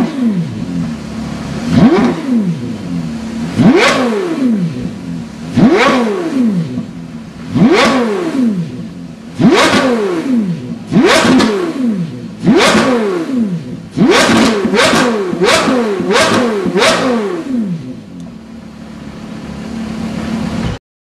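Porsche Carrera GT's V10 engine, breathing through a Kreissieg cat-back valvetronic exhaust, blipped at idle: each blip revs up sharply and falls straight back, about every two seconds. Near the end comes a quicker run of six blips, then it settles to idle before the sound cuts off.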